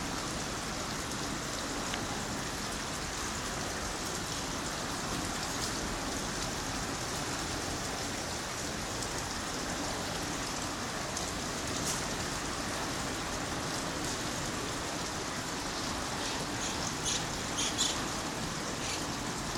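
Steady rain falling, an even hiss with a few brief high ticks near the end.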